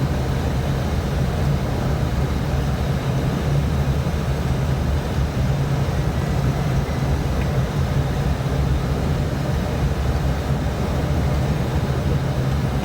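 Steady drone of an airliner cockpit on final approach: engine and airflow noise, strongest low down, even throughout.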